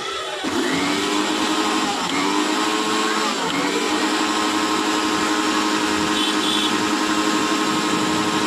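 Electric mixer grinder motor running, its pitch rising several times in the first few seconds as it speeds up, then holding a steady tone.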